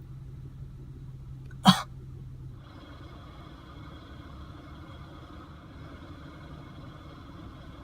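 Steady low background rumble with a low hum, and a single sharp click a little under two seconds in. About a second later the hum drops out and a faint high steady whine comes in.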